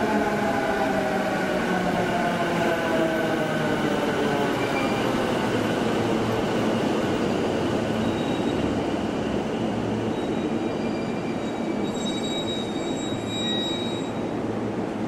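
Electric train running through a station, with a whine that falls in pitch over the first few seconds. A steady high squeal sounds for about two seconds near the end.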